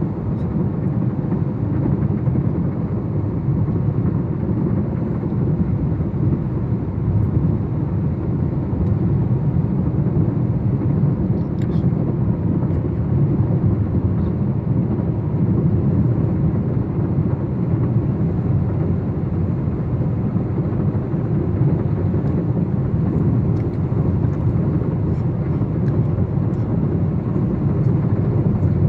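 Freight train passing, a steady low rumble of locomotives and rolling cars on the rails, with a few faint high clicks.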